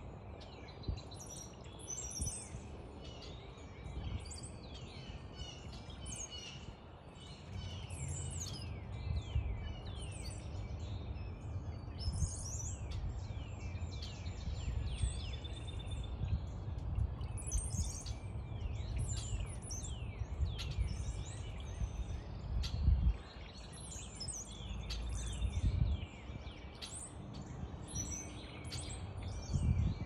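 Several small songbirds chirping and calling at once, with many short quick falling chirps, over a low rumble.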